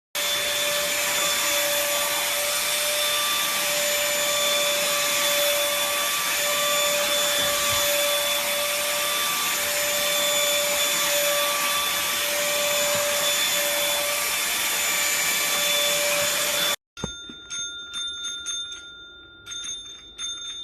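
A motor-driven appliance running steadily: a rush of air with a high, steady whine, like a vacuum cleaner or blower. It cuts off suddenly, followed by a few quieter clicks and a steady ringing tone.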